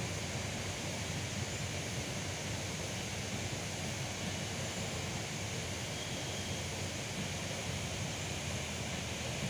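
Steady rumble of Indian Railways LHB passenger coaches rolling past on the track, wheels on rail.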